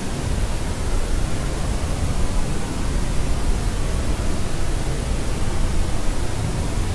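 Steady white noise for infant sleep: an even, unchanging hiss, heavier in the low end.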